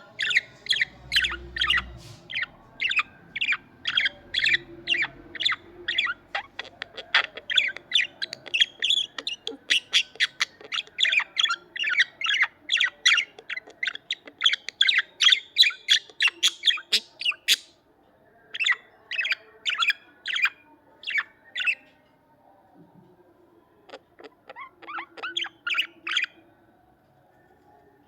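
Budgerigars chirping in a quick run of short, sharp calls, about three a second, breaking off briefly twice in the second half.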